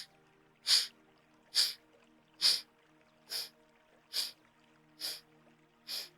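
Forceful exhalations through one nostril, kapalbhati-style breathing strokes: a sharp nasal puff a little more often than once a second, about eight in a row at an even pace.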